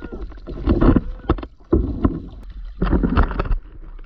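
Raft paddles dipping and splashing in river water in irregular strokes, over a steady low rumble.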